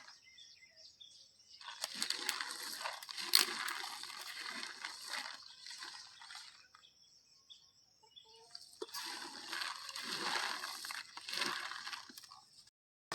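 Water splashing and sloshing in irregular stretches, with a sharp click about three and a half seconds in.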